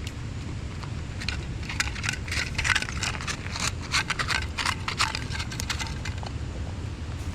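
Dog eating dry food from a bowl: an irregular run of crunches and clatters of kibble against the bowl, thickest from about one to six seconds in, over a steady low rumble.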